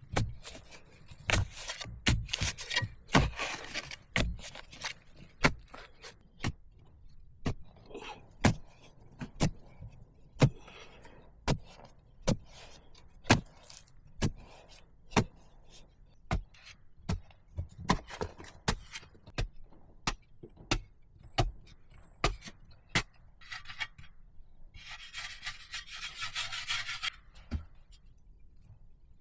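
A hand tool striking wood again and again, sharp knocks at about one or two a second, with a few seconds of scraping near the end.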